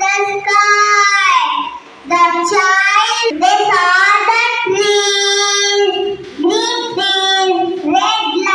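A child singing a song without accompaniment, with long held notes and a short pause for breath about two seconds in.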